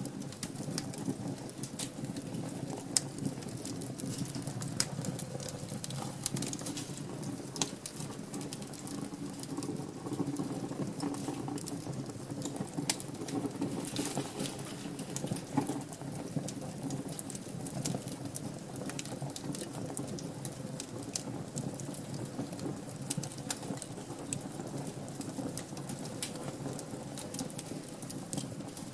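Wood fire burning in a fireplace: steady crackling with many small, sharp pops at irregular moments.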